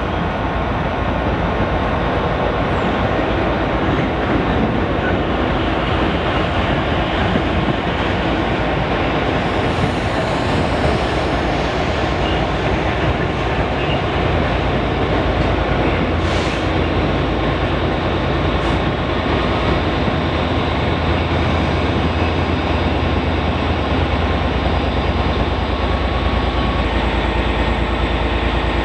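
A passenger train hauled by a Class 57 diesel locomotive rolling steadily along the platform, a continuous rumble of coach wheels on rail. The deep engine rumble grows stronger near the end.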